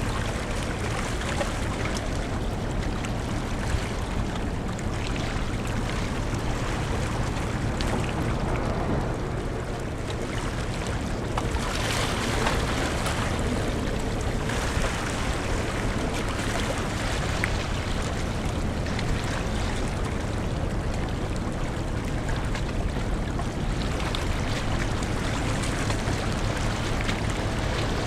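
Steady low rumble and hiss of a large car ferry under way, with rushing water and wind.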